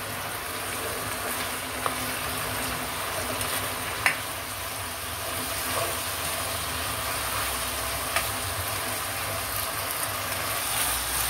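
Chicken pieces and teriyaki sauce sizzling and bubbling in a frying pan while being stirred as the sauce reduces, with a few sharp clicks of a utensil against the pan.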